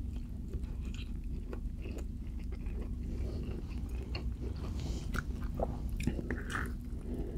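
A person chewing and biting food, with irregular wet mouth clicks and smacks.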